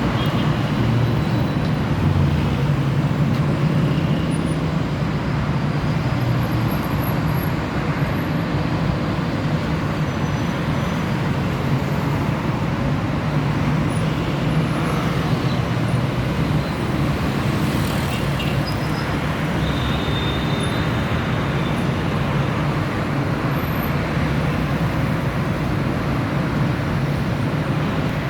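Steady road traffic noise of running vehicle engines, with a low hum that is stronger for the first several seconds.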